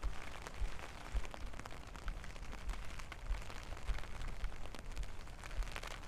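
Steady rain falling, with many separate drops ticking close by and irregular low thuds underneath.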